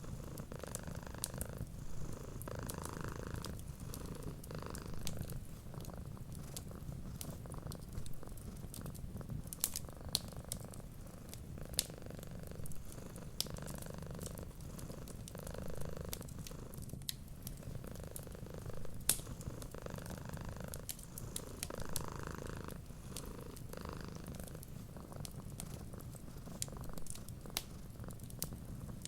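A cat purring steadily, the purr swelling and easing with each breath every second or two, with scattered sharp crackles from a wood fire.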